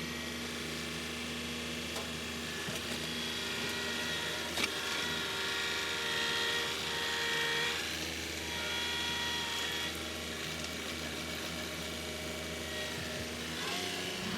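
Compact tractor's diesel engine running steadily, with a higher whine that comes and goes over it and a single sharp knock about four and a half seconds in.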